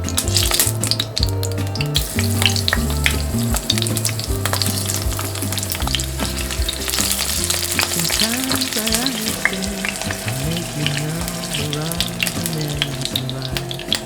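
Vegetables shallow-frying in a thin layer of oil in a frying pan: a steady sizzle with dense crackling, with some stirring or turning in the pan.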